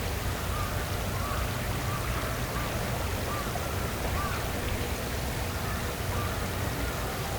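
Outdoor waterside ambience: a steady hiss of flowing water over a low rumble, with an animal repeating a short rising-and-falling call about once or twice a second.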